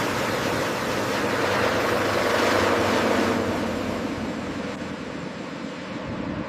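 Rushing noise of an aircraft passing, with a low steady hum under it; it swells to a peak about halfway and then eases off.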